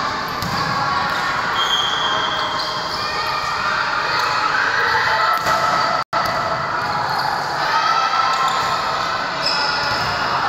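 Basketball game in an indoor hall: a ball bouncing on the court amid the continuous hubbub of players and spectators. The sound cuts out completely for an instant at about six seconds.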